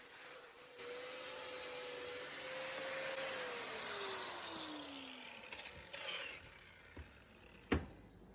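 A small power tool's motor running with a whine, then winding down after being switched off, its pitch falling steadily over about two seconds. A single sharp click comes near the end.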